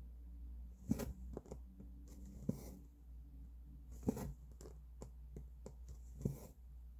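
Cross-stitch needle and thread worked through fabric: four sharp ticks as the needle pokes through, each followed by a short scratchy rustle as the thread is drawn through, with a low steady hum underneath.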